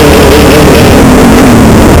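Dirt bike engine revving up sharply, then dropping slowly in pitch over the next second and a half, under a heavy rush of wind and ride noise.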